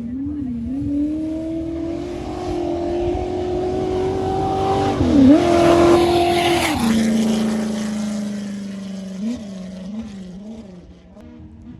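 An off-road race vehicle's engine passing by at speed. Its pitch rises as it accelerates towards the microphone, with a quick shift about five seconds in. It drops to a lower pitch as it goes past near the seventh second, then fades away with a few short throttle blips.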